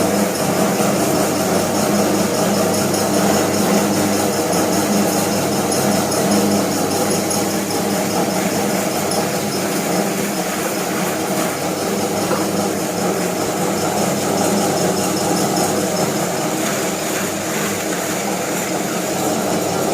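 Motor-driven fish slicing machine running steadily, a constant mechanical hum and whirr from its motor and rotating round blades.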